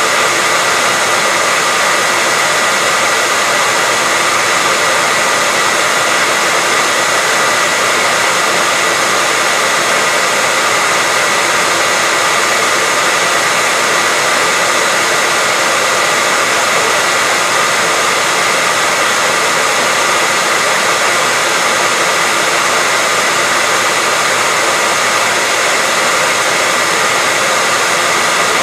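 Hairdryer running continuously at a steady speed: an even rushing of air with a thin, steady whine from the fan motor.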